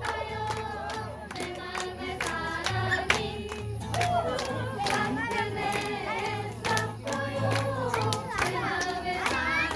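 A group of children singing a song together, with regular clapping.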